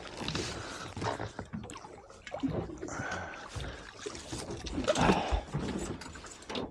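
Water slapping and sloshing against a small boat's hull, with irregular knocks and rustles of handling. A louder stretch comes about five seconds in.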